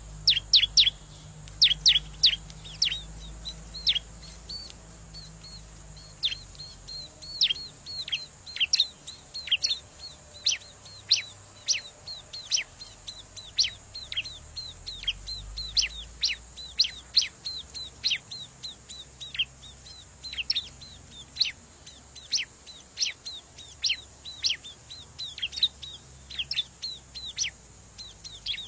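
Bar-winged prinia (ciblek) calling busily: a rapid run of sharp, downward-sweeping chirps, several a second, in bursts with short gaps. It is a noisy ciblek lure call of the kind used to draw wild prinias in.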